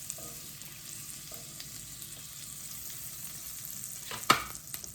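Butter melting and sizzling in a hot frying pan, a steady hiss. A single sharp clink about four seconds in.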